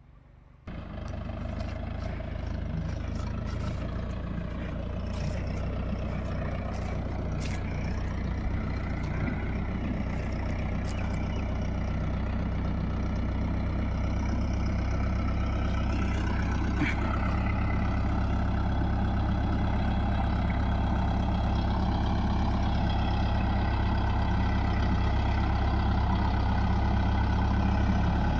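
Mahindra Yuvo Tech+ 585 DI tractor's diesel engine running steadily. It comes in suddenly under a second in and grows slowly louder.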